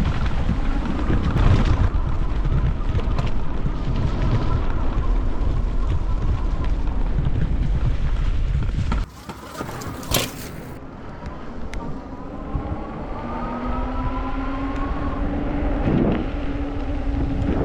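Folding e-bike ridden over a trail: heavy wind and rumble on the microphone that drops away suddenly about nine seconds in. Then the electric motor whines, its pitch slowly rising as the bike gathers speed.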